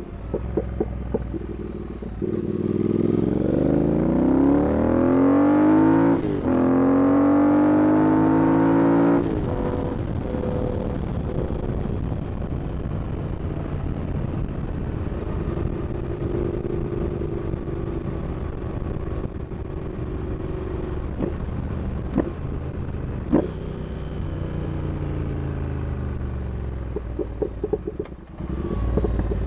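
Triumph Speed Twin 1200's parallel-twin engine accelerating hard, the pitch rising steeply through a brief gear change, then the throttle shut abruptly about nine seconds in. It then runs steadier at lower pitch with a few sharp cracks, and dips briefly before revving again near the end.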